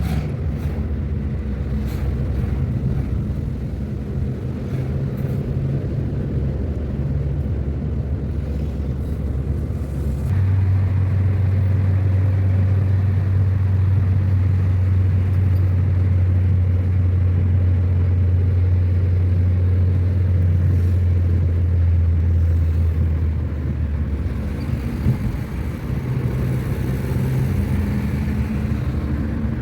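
Car driving, with a steady low engine and tyre drone. About ten seconds in the engine's hum gets stronger and louder, then eases off again a few seconds before the end.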